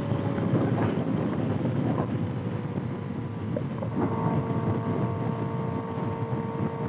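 Kawasaki ZX-6R's inline-four engine running through a loud exhaust at steady cruising revs, its pitch easing down a little over the first few seconds and then holding, under heavy wind rush on the microphone.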